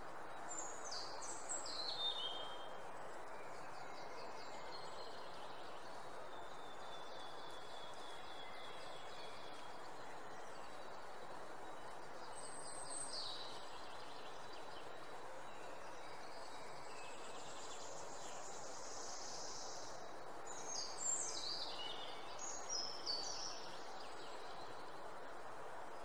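A small bird sings short phrases of quick, falling high notes, about a second in and again near the end, with a single high note midway. Under it runs a steady outdoor background hiss.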